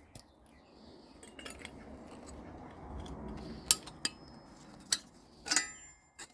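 Pieces of scrap aluminium being handled, starting with a light scraping rustle. In the second half come several sharp metallic clinks, one of them ringing briefly.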